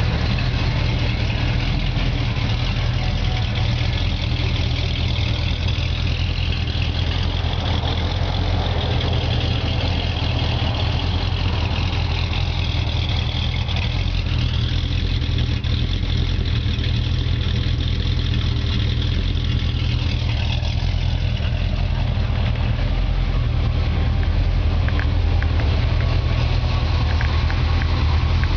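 Chevrolet 454 big-block V8 idling steadily, with a faint high whine that wavers up and down in pitch through the middle.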